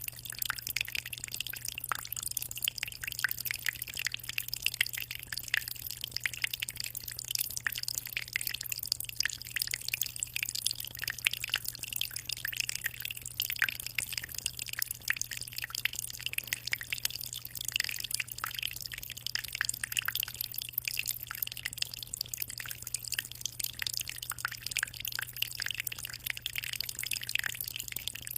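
Water circulating in a 60-liter aquarium: a constant, even trickle of many small drips and splashes at the surface, with no pauses. A steady low hum runs underneath.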